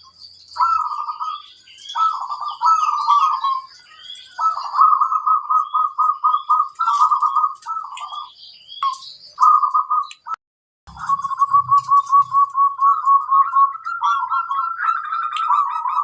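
Zebra doves (perkutut) cooing: repeated phrases of rapid rolling coo notes, several birds answering one another so that phrases overlap near the end. A thin steady high tone runs behind, and the sound drops out briefly a little past the middle.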